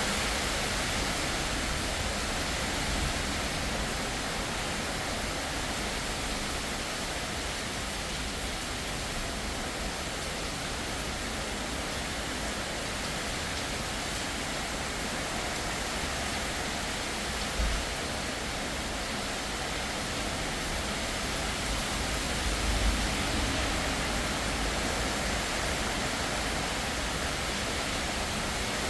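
Heavy rain pouring down steadily in strong wind, an even rushing hiss. Two brief low thumps come through, one a little past halfway and another later on.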